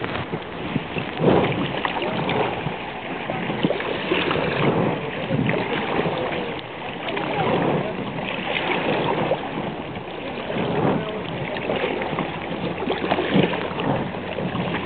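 Muffled, irregular rustling and knocking of jacket fabric rubbing over a pocketed camera's microphone, over the sound of river water and paddling.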